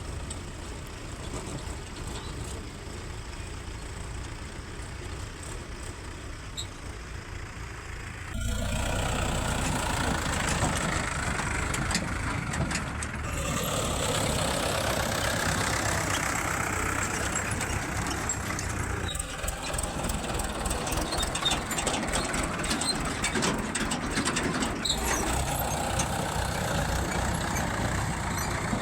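Heavy diesel machinery running, a backhoe loader and tractor working at mud loading, with scattered knocks. The sound gets abruptly louder about eight seconds in.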